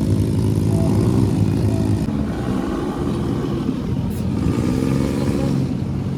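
Off-road dune buggy engine running under way, its pitch dipping and rising as it revs up and down.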